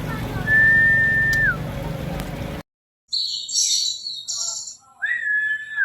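Caged songbirds calling: high rapid chirps, plus a long level whistle that drops in pitch at its end, heard once near the start and again near the end.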